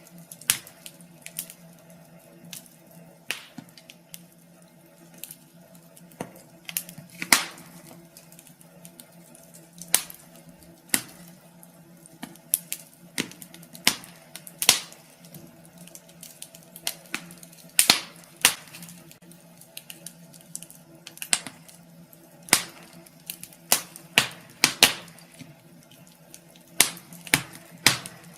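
Wood fire crackling in a fireplace: irregular sharp pops and snaps, some much louder than the rest, over a faint steady low hum.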